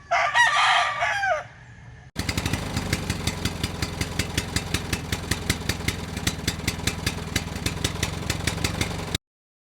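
A rooster crowing once, about a second and a half long. From about two seconds in, a steady rhythmic ticking beat, roughly four a second, runs until it cuts off suddenly near the end.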